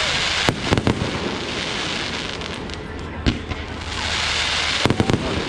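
Fireworks going off: sharp bangs about half a second in, a quick cluster just before one second, a single bang a little past three seconds and a rapid group of three near the end, over a steady hiss.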